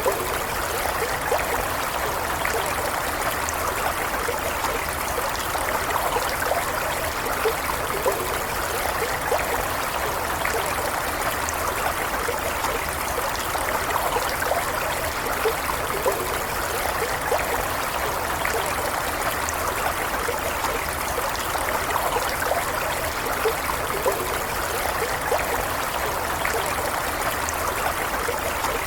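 A small stream flowing steadily, water splashing and trickling over stones with many small bubbling flecks.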